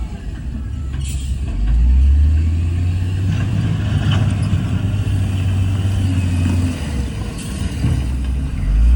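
Heavy earthmoving machine's diesel engine running with a deep rumble, working harder about two seconds in, easing off near seven seconds and pulling hard again at the end, with a few faint knocks over it.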